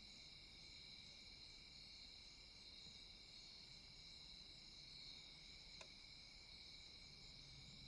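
Faint, steady chorus of night insects, with one short click about six seconds in.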